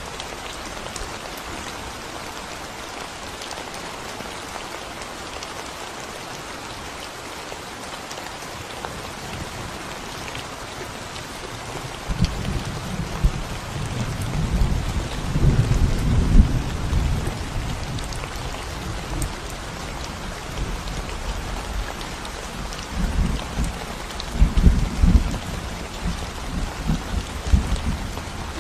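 Steady rain falling on a concrete road and the plants beside it, an even hiss of drops. About halfway through, a low rumble comes in and swells in two uneven spells.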